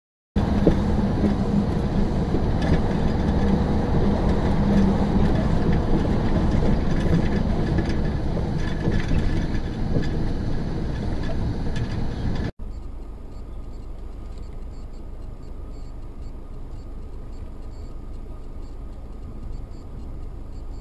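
Steady rumble of a vehicle in motion, road and engine noise. It cuts off abruptly about twelve seconds in, and a quieter, similar driving rumble follows.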